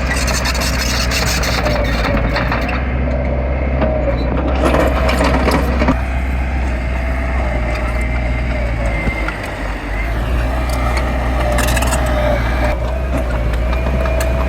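Diesel engine of heavy earthmoving machinery running steadily under load, with a wavering whine over it and a rougher, noisier stretch about five seconds in.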